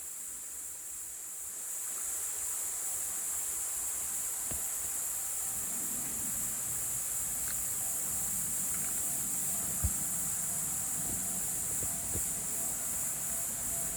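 Steady high-pitched drone of insects singing. A low rumbling noise joins about five seconds in, with a few faint knocks and one sharper knock near ten seconds.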